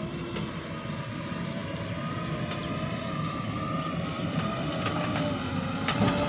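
JCB 3DX Super backhoe loader's diesel engine running steadily under a wavering whine, with a few sharp metallic clanks near the end.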